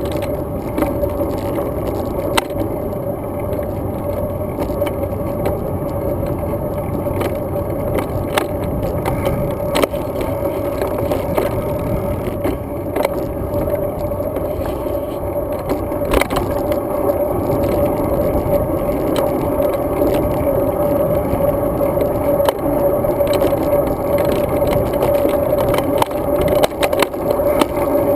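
Road bike riding noise picked up by a GoPro Hero 2 camera: a steady, muffled rumble of tyres and wind with a steady droning tone and scattered clicks and rattles. It grows a little louder in the second half.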